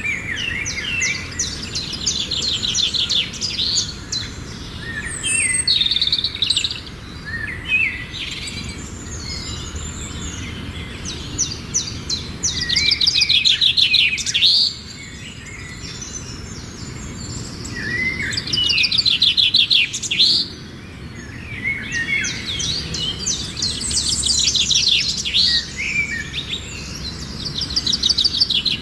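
Small birds singing: rapid trilled chirps in loud bursts a few seconds apart, with scattered single chirps between.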